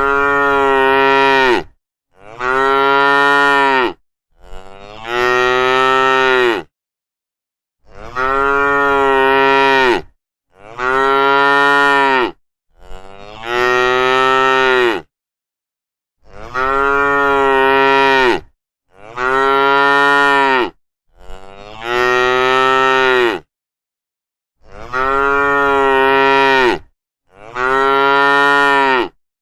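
Cows mooing, one long moo after another, about eleven in all. Each lasts about two seconds, with dead silence between them.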